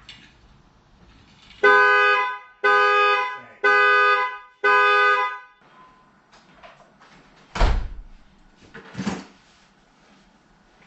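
Two-tone car horn honking four times, each blast just under a second long and about a second apart, followed by two dull thumps a second and a half apart.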